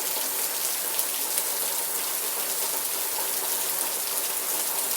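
Steady rainfall, a constant patter of drops on surfaces with occasional individual drop ticks.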